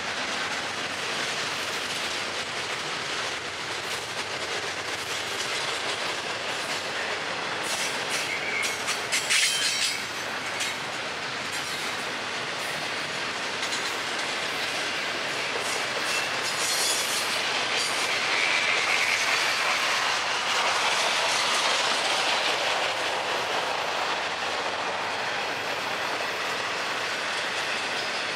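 Double-stack intermodal freight cars rolling steadily past, with the continuous noise of steel wheels on rail. A burst of sharp clattering comes about a third of the way through, and a faint high-pitched wheel squeal comes about two-thirds through.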